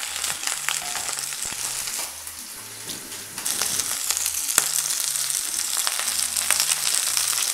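Starch-coated peeled shrimp sizzling in hot oil in a nonstick frying pan, with scattered sharp crackles. The sizzle drops briefly about two seconds in and then comes back louder.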